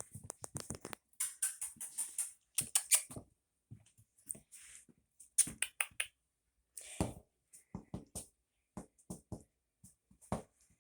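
Maltipoo puppy playing: irregular quick clicks and scuffles, the patter and scrabble of its paws as it tussles with a slipper.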